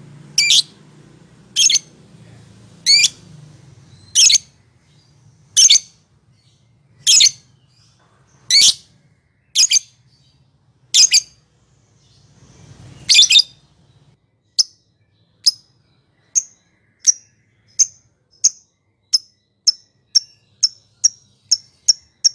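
Lovebird calls: loud, shrill single calls spaced about a second or more apart. About 14 s in they give way to a run of shorter, thinner chirps that speed up to about two a second.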